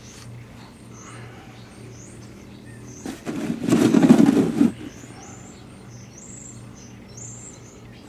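Small birds chirping in the background over a steady low hum, with one loud noisy scrape lasting about a second and a half, about three seconds in.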